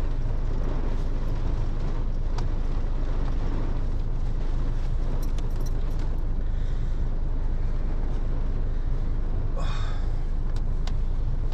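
Heavy storm rain and wind on a car, heard from inside the cabin as a steady low rumble and hiss, with a few light knocks and rustles.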